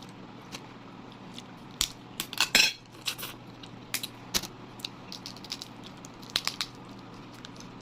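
Clicks and clatter of cutlery and crab shell against a plate while eating crab, with a louder burst of cracking and scraping about two and a half seconds in.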